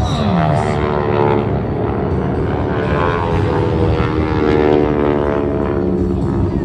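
Propeller engine of a 600-horsepower World War II-era aircraft droning as it flies past, its pitch dropping in the first half second.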